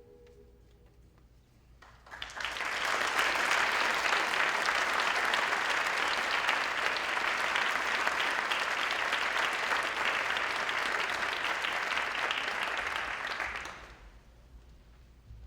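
Audience applauding, starting about two seconds in and fading away near the end.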